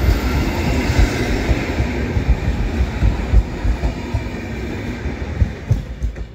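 Passenger coaches of a departing train rolling past on the rails: a steady rumble with irregular low thumps from the wheels, dying away as the last coach clears.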